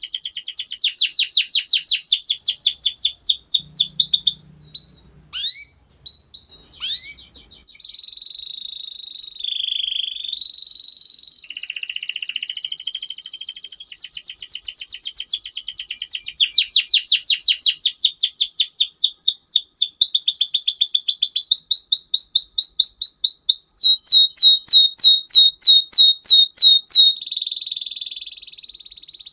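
Domestic canary singing a long song of fast rolling trills. A few seconds in, the trills break into scattered short notes and held whistles, then they resume, growing louder near the end, and the song finishes on a steady high whistle.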